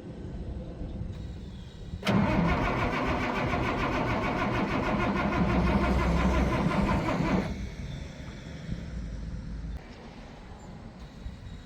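International DT466 turbo diesel in a 1987 S1900 dump truck being started cold after sitting for days. A loud burst of cranking and engine clatter begins suddenly about two seconds in and lasts about five seconds, then falls to a quieter rumble that drops away again near the end.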